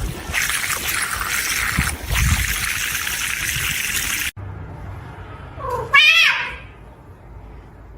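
Running water for about four seconds, cut off abruptly, then a domestic cat gives one loud meow that rises and falls about six seconds in.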